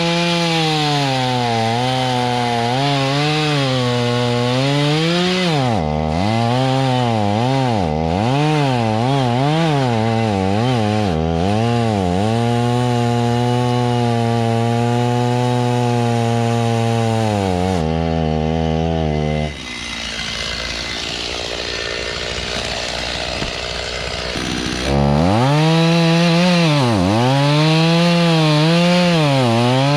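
Rural King RK55 tractor's diesel engine driving a Woodland Mills WG24 PTO stump grinder, its pitch repeatedly dipping and recovering as the cutter wheel bites into the stump. For about five seconds past the middle the engine tone drops out under a noisier grinding hiss, then returns louder.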